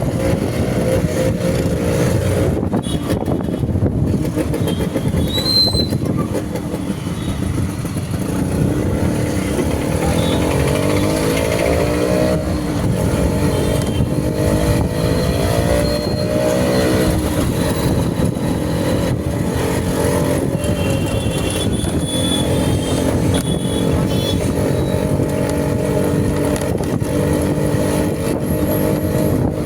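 Motorcycle engine running while riding, its pitch rising and falling with the throttle, over steady road and wind noise.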